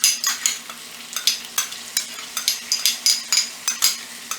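Onions and ginger garlic paste sizzling in hot oil in a pan, stirred with a spatula that scrapes and clicks against the pan several times a second.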